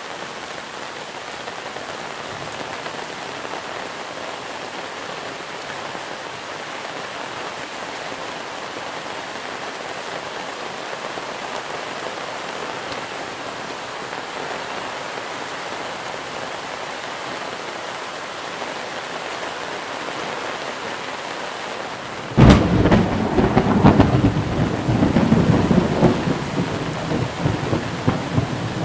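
Steady monsoon rain. About two-thirds of the way through, a sudden loud clap of thunder breaks in and rumbles on unevenly for several seconds before easing back into the rain.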